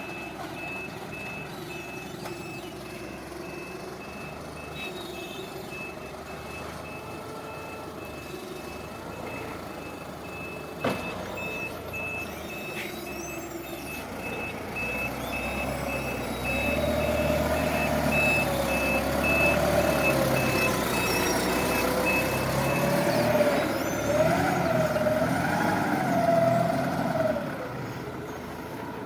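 Forklift's reversing alarm beeping evenly over its running engine, with one sharp knock about eleven seconds in. From about sixteen seconds the engine grows louder with a wavering whine, and both fade back near the end as the beeping stops.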